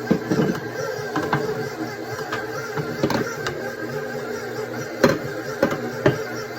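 Electric stand mixer motor running steadily with a paddle beater working thick bread dough, with a few sharp knocks scattered through it.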